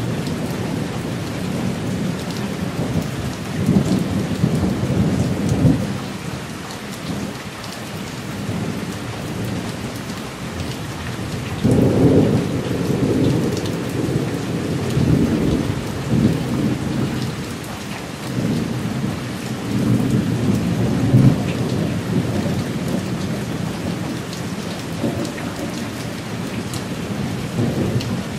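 Thunderstorm: steady rain falling, with rolling thunder. A rumble comes about four seconds in, a sudden, louder peal about twelve seconds in rolls on for several seconds, and another rumble follows about twenty seconds in.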